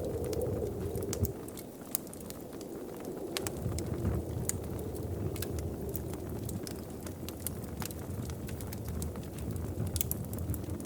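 Wood fire crackling, with scattered sharp pops over a low rumble of flames. A low hollow tone fades out about a second in and comes back faintly a few seconds later.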